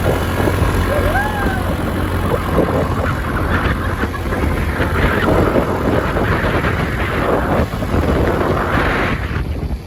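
Motor vehicle running with a steady low rumble, and irregular gusts of wind noise swelling over it through the middle and latter part.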